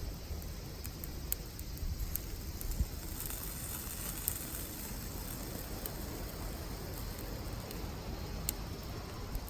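Wood and charcoal campfire crackling, with a few scattered sharp pops over a low steady rumble.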